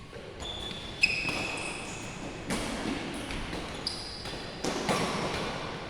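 Badminton rally: three sharp racket-on-shuttlecock hits about a second and a half apart, the first the loudest, with short high squeaks of court shoes on the floor between them.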